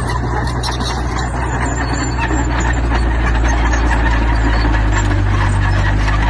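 Heavy diesel engine of earthmoving machinery running steadily under load, with a dense clattering noise over it; it grows a little louder a little over two seconds in.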